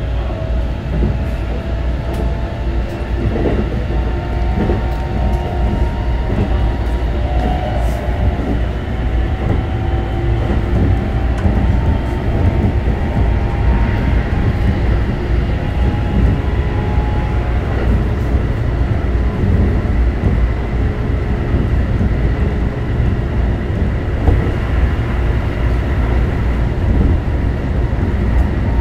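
Running sound inside a Keikyu New 1000 series electric train with a Siemens 'Doremifa' VVVF inverter. The whine of the inverter and traction motors sits over a steady rumble of wheels on rail, with several whining tones in the first dozen seconds.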